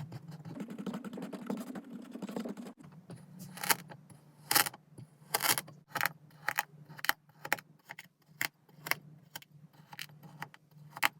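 Kinetic sand being cut with a blade: first a few seconds of dense, grainy crumbling and scraping, then a run of separate crisp crunches, about one or two a second, as the blade slices through the packed sand.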